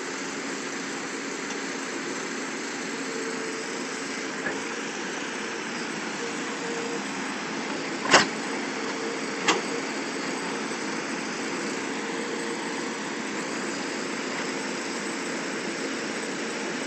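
A vehicle engine running steadily, with two sharp knocks about eight and nine and a half seconds in, the first louder.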